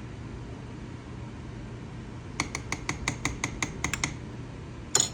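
Steady low hum, then a quick run of about ten ringing metal clinks, roughly six a second, of a utensil against a cooking pot, and one louder clatter near the end.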